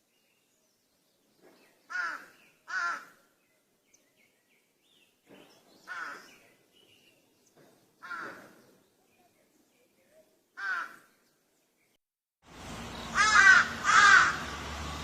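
Crow cawing: five separate harsh caws a second or more apart, the first two close together. About twelve seconds in, a steady background hiss starts and two louder caws follow in quick succession.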